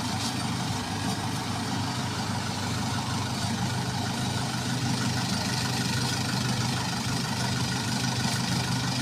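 Combine harvester engine running steadily in the rice field, a constant low drone with no change in pitch.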